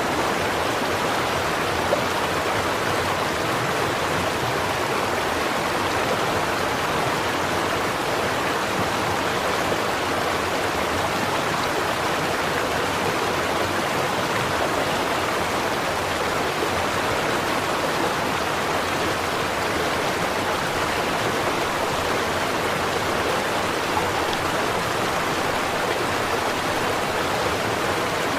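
Stream water running over stones, a steady unbroken rushing and babbling.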